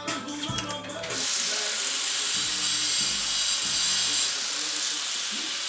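Background music with a beat, joined about a second in by the steady high whir of a power tool working the exhaust bolts.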